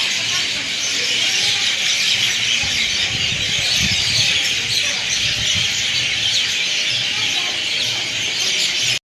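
Dense, steady chorus of high-pitched birdsong and chirping, with a faint low rumble in the middle.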